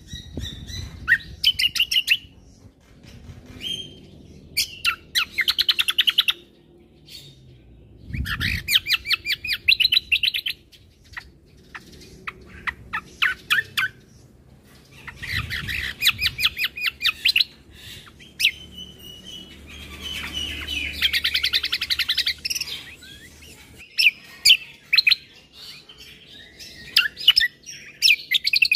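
Kecial kombo (cucak kombo) singing: sharp, high chirps broken by rapid trilled phrases, about five of them, each lasting a second or two.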